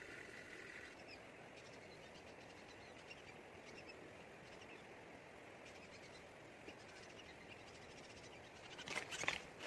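Quiet woodland ambience with a few faint bird chirps. About nine seconds in, a burst of crackling and rustling clicks begins and grows louder.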